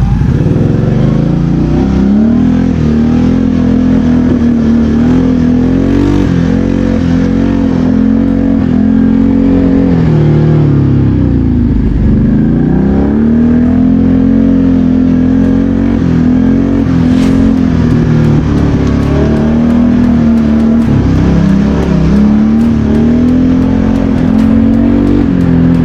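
BRP Outlander 650 quad's V-twin engine running while riding, the engine speed rising and falling with the throttle and dropping right off once, about twelve seconds in, before picking up again.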